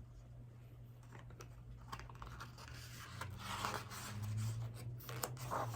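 Soft rustling and scratching handling noise, growing louder about halfway through, over a faint low steady hum.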